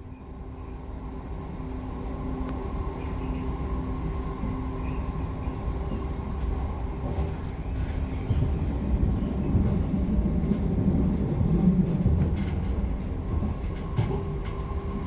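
Regional electric train running: a steady rumble with a constant hum. It grows louder over the first couple of seconds and is heaviest a little past the middle.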